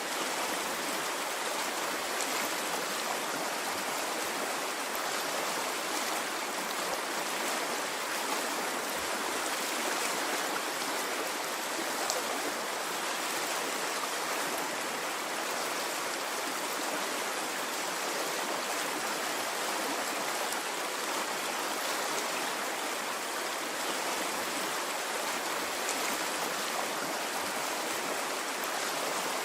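A stream of water running steadily, an even rushing with faint trickling ticks.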